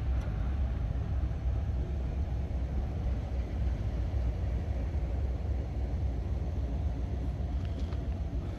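Steady low rumble of a stopped CPKC coal train's diesel locomotives idling.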